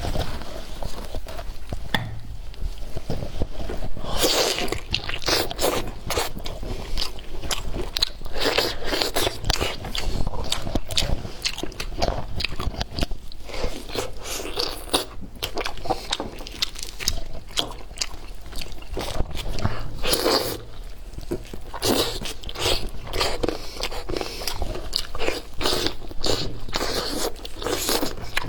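A person eating close to the microphone: bites and chewing with many sharp, irregular crunches.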